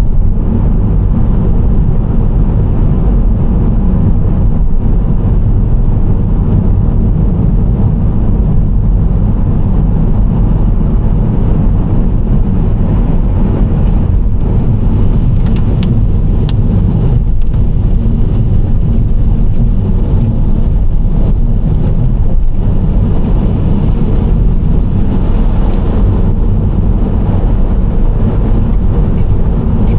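Steady road noise of a Nissan Serena C25 minivan cruising: a deep, even rumble of tyres and engine, with a few faint ticks about halfway through.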